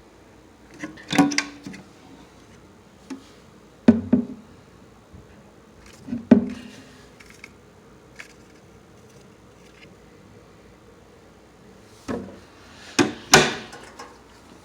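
A few sharp knocks and clicks at irregular intervals, some followed by short scuffing or rustling, with the loudest cluster near the end.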